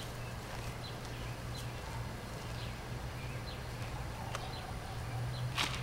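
Songbirds calling: a string of short, high, falling chirps, one or two a second, over a low steady hum. A single short, sharp swish or rustle sounds near the end.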